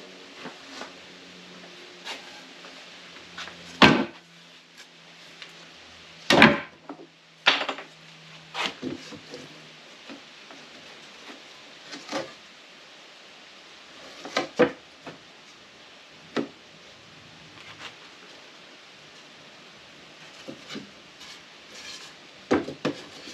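Scattered knocks and clatter of wood and tools being handled and set down, a dozen or so sharp knocks at uneven intervals, the loudest about four and six and a half seconds in. A faint low hum runs under the first nine seconds.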